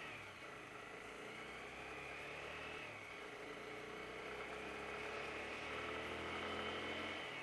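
Honda CB 300R's single-cylinder engine running as the motorcycle rides along a street, with a brief change in the engine note about three seconds in.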